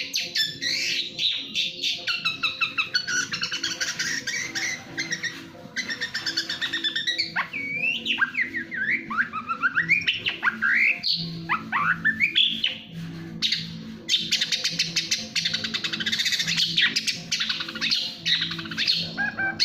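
Long-tailed shrike (cendet) singing a fast, unbroken song of rapid chattering trills, with a run of sliding whistled notes in the middle and a brief break just past halfway.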